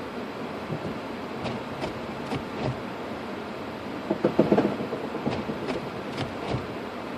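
Steady noise in the cabin of a car in a snowstorm, with scattered clicks and knocks and a short cluster of louder thumps about four seconds in.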